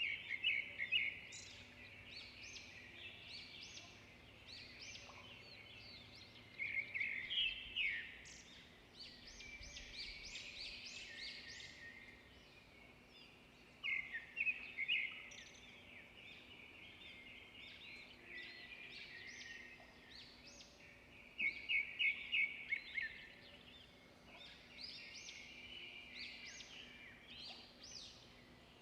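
Several small songbirds singing and calling together, short chirps and trills overlapping without pause, with louder runs of rapid chirps about a quarter, half and three-quarters of the way through.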